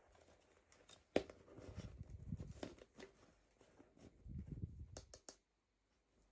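Hands handling toy packaging at close range: soft rustling and crinkling in two short spells, with a sharp click about a second in and a few more sharp clicks near the end of the second spell.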